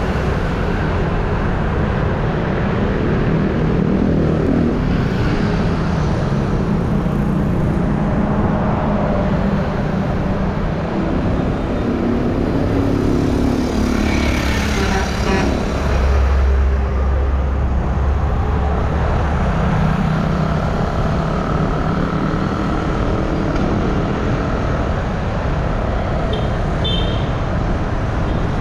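Road traffic noise heard while riding along a road: a steady low rumble with a vehicle passing close about halfway through, and a few short high tones near the end.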